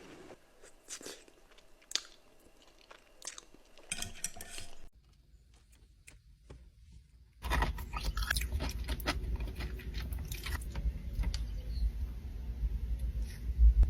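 Close-miked eating: a person biting and chewing crunchy food. At first there are only scattered soft mouth clicks, then a brief near-silent gap, and from about halfway through comes loud, continuous crunching and crackling chewing.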